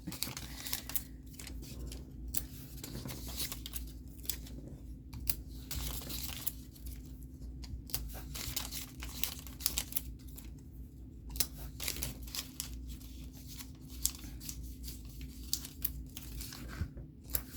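Scratch-off stickers being peeled from their backing and pressed onto paper pages: irregular crinkles, rustles and light taps of paper and sticker handling.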